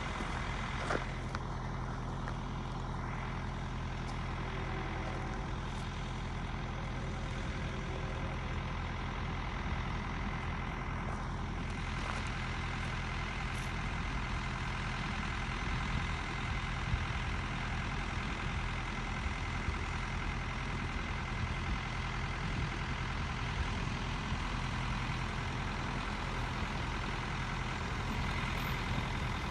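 A heavy diesel engine running steadily, most likely a freight locomotive's, with a constant low drone and several held tones that don't change.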